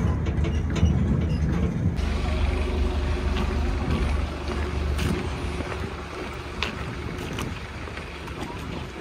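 A vehicle's low rumble, with a few scattered clicks and knocks; it eases off after about five seconds.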